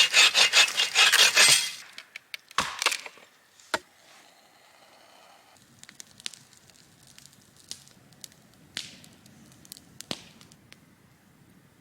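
Dry wood being broken or worked. A loud, fast run of sharp strokes lasts about a second and a half, then scattered sharp cracks and snaps follow.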